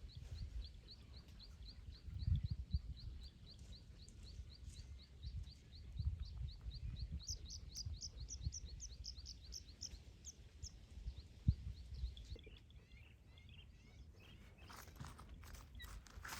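A bird chirping over and over in a steady rhythm, about three short high chirps a second, with a second, higher-pitched chirping joining in for a few seconds in the middle. Under it runs an uneven low rumble with a few dull thumps.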